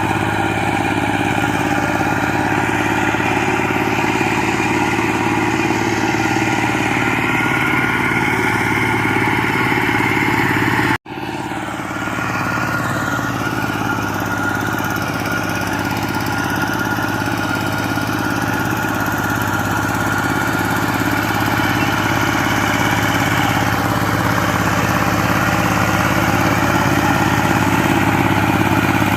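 Power tiller's engine running steadily. It cuts out abruptly about eleven seconds in, then resumes a little quieter and gradually grows louder.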